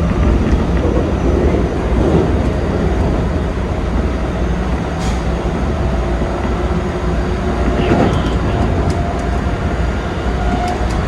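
Keikyu 2100 series electric train running at speed, heard from inside the driver's cab: a steady low rumble with a faint motor whine. There is a sharp click about halfway through and another stroke near the end.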